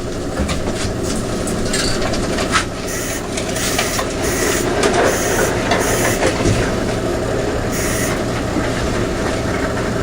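A machine running steadily with a low hum, with irregular hissing over it.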